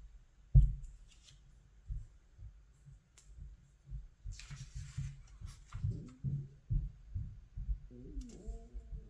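Paper catalog being handled and its pages turned: a sharp thump just after the start, then scattered soft bumps and taps from the handling, and a papery rustle of a page turning about halfway through.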